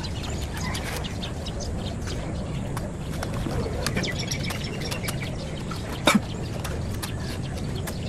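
Birds chirping in quick short notes over a steady outdoor background hum, with one short, louder sound about six seconds in.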